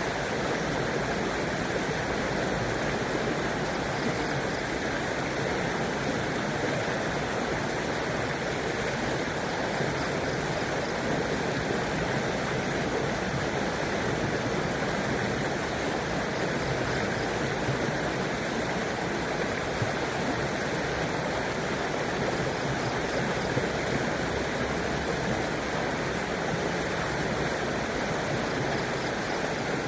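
River water flowing over stones in a steady, unbroken rush.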